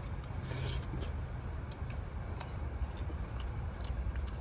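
Steady low rumble with a few short, sharp clicks and brief hissy sounds scattered through it.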